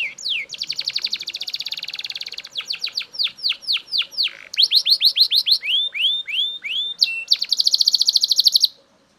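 Male Belgian canary singing loudly: a series of quick whistled notes sliding down in pitch, broken by two long, very fast trills, one near the start and one near the end. The song cuts off suddenly just before the end.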